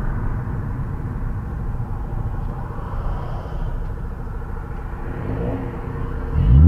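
Car driving, a steady low rumble of engine and road noise. Near the end a much louder, deeper sound sets in suddenly.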